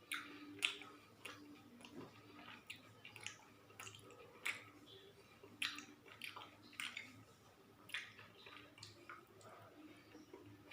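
A person chewing close to the microphone, eating gulab jamun, with irregular sharp mouth smacks and clicks every half second to a second.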